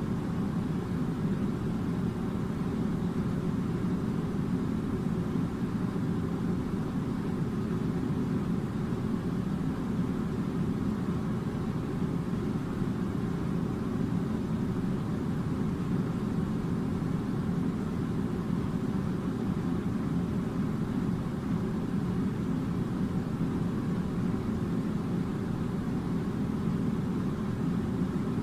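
A steady, unchanging low mechanical hum or rumble, like a motor or machine running continuously.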